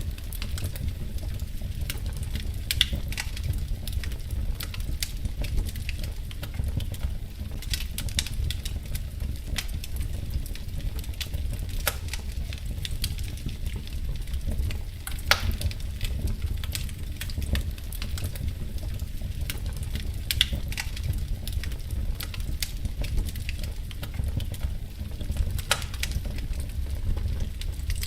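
Wood fire in a fireplace crackling, with scattered sharp pops at irregular intervals over a steady low rumble; one of the loudest pops comes about halfway through.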